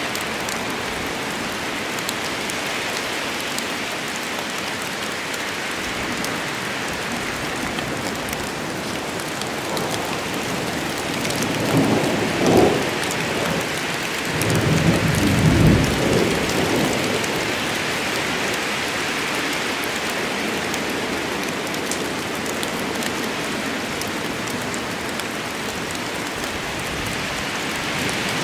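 Steady rain falling in a forest, with a roll of thunder rumbling for a few seconds around the middle and swelling twice.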